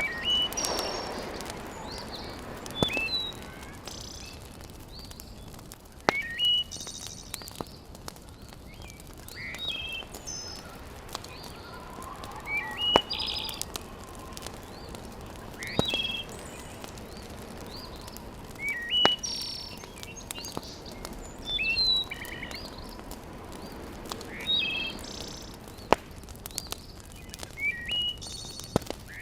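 Birds singing outdoors, short high chirping phrases repeated every two to three seconds over a steady low hiss. A few sharp single pops, like a wood fire crackling, land between the calls.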